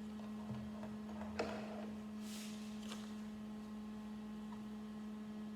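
Light clicks and handling noises of plastic Lego pieces, the sharpest click about one and a half seconds in, over a steady low electrical hum.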